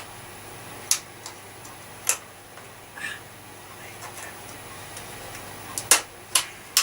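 Sharp, irregular clicks and scrapes of a hand tool picking and prying at hard, caked dirt lodged in a vacuum cleaner's parts, about six strikes, clustered near the end.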